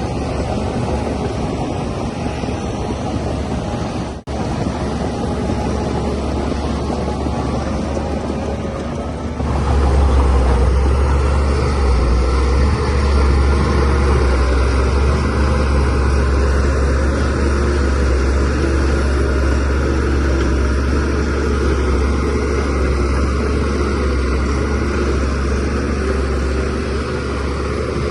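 DH17C3 Pro crawler bulldozer's diesel engine running steadily, with a brief break about four seconds in. About nine seconds in, the low engine drone grows louder and stays that way.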